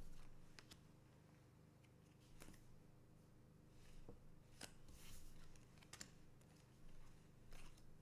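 Faint handling sounds of trading cards and pack wrappers: scattered light clicks and brief soft rustles, over a low steady hum.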